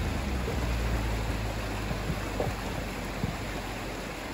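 A 4x4's engine running low and steady under a constant rushing hiss.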